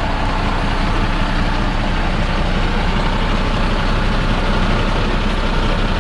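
Large truck engine idling steadily, a loud, even low hum.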